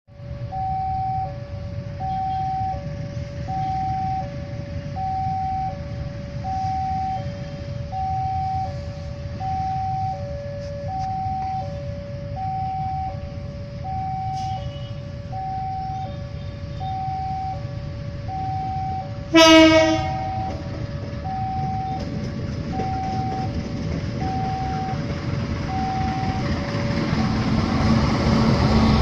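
Railway level-crossing warning alarm sounding a steady two-tone alternating signal over a low rumble. About two-thirds of the way through, a train horn gives one short, loud blast. Near the end the rumble grows as a train approaches.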